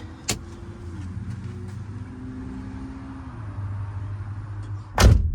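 A low steady hum with a few faint held tones, like a vehicle running in the background. A short knock comes just after the start, and a single loud heavy thump about five seconds in, as of something heavy being set down.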